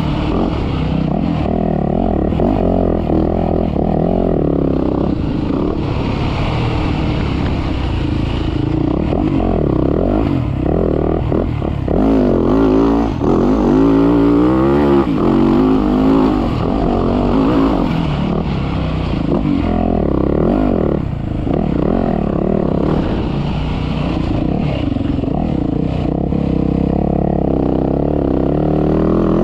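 Motocross dirt bike engine revving hard and easing off again and again, its pitch climbing and dropping over and over.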